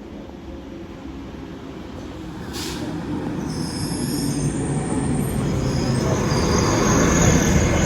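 Two coupled class 195 diesel multiple units arriving at a station platform, the rumble growing steadily louder as they approach. A brief hiss comes about two and a half seconds in, followed by high-pitched squealing as the train slows.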